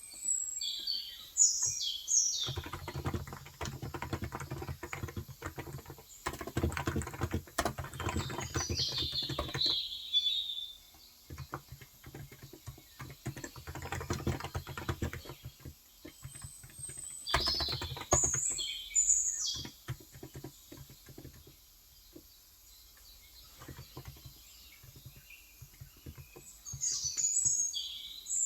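Typing on a Cox Endeavour electro-capacitive (35 g) tenkeyless keyboard: quick runs of soft keystrokes broken by pauses. A small bird chirps in short bursts four times over it.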